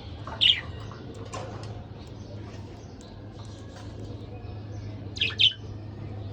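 Budgerigars chirping: a sharp chirp about half a second in and two quick chirps near the end, over soft continuous chattering and a steady low hum.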